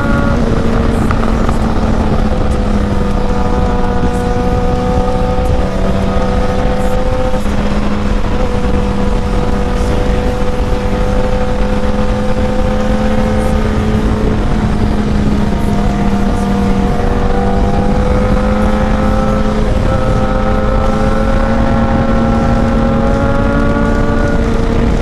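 Sport motorcycle engine running at steady cruising revs, its pitch easing slightly down and back up, with heavy wind rush on the microphone.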